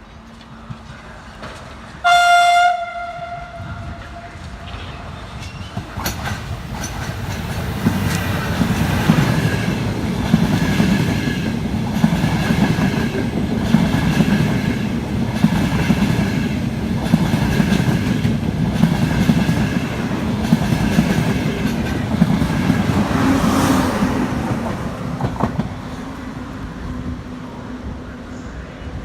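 Train horn gives one short blast about two seconds in. Then a train passes for about twenty seconds: a steady rumble with regular wheel clacks over rail joints and a steady high tone above it, fading near the end.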